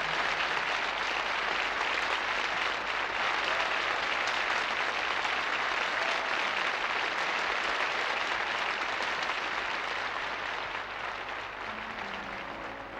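A concert audience applauding, dense and steady, fading slightly near the end as the band starts playing again.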